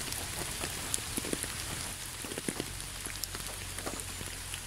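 Steady rain: a continuous hiss with many individual drops ticking through it.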